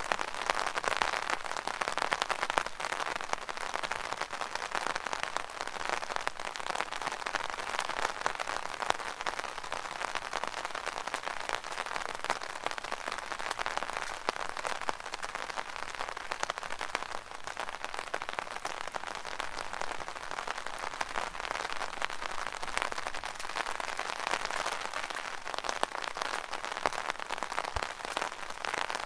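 Rain falling on an umbrella canopy: a steady, dense patter of many small drops tapping on the fabric.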